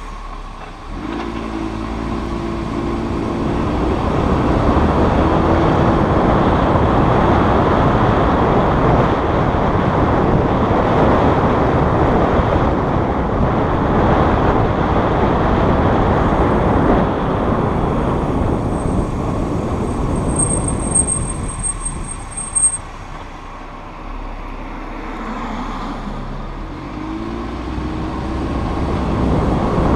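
Audi RS3 sedan on the move: its five-cylinder engine pulls away, then road and tyre noise builds. About two-thirds of the way through, a thin, high-pitched brake squeal sounds for about three seconds as the car slows. The noise then drops off, and near the end the engine pulls away again.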